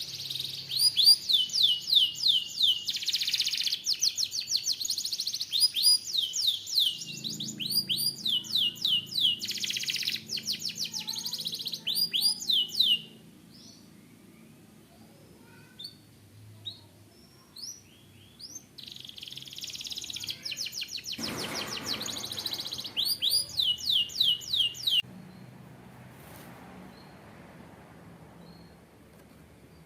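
Domestic canary singing: long phrases of rapid, repeated falling notes and fast trills. The song breaks off about 13 seconds in, gives way to a few faint scattered notes, resumes about six seconds later, and stops near the end, leaving only faint background.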